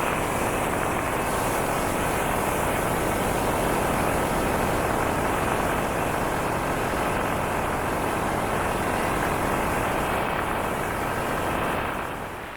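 Motorcycle at road speed: engine drone mixed with a steady rush of wind over the microphone, getting quieter near the end.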